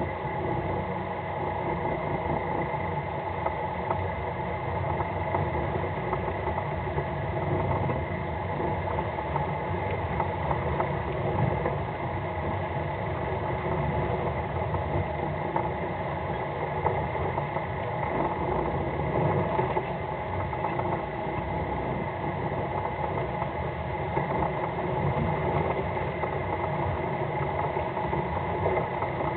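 A fishing boat's engine running steadily at low revs, a constant hum of several steady tones over a rushing noise.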